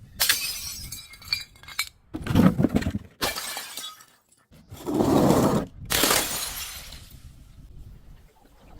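Glass bottles shattering and crunching, about four separate breaks in quick succession, each cut off abruptly, the last trailing off in a short tinkle of ringing shards.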